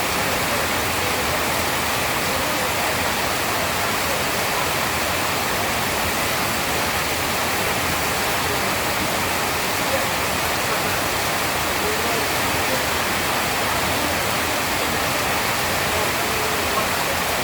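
Steady heavy rain: a dense, even hiss of falling water that holds without change, with a couple of slightly sharper drop impacts about ten seconds in and near the end.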